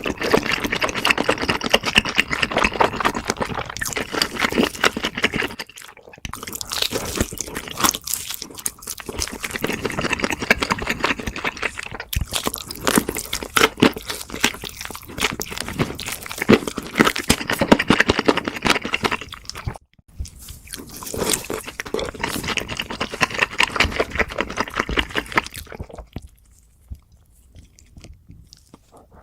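Close-miked eating: loud crunching and chewing in several bouts with brief pauses, dying down to faint sounds near the end.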